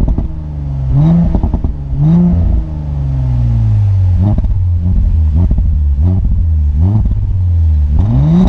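Audi S4 Avant (B9) V6 engine and exhaust being revved in short blips, about one a second: each rev climbs quickly and drops back toward idle, with one longer drop back partway through.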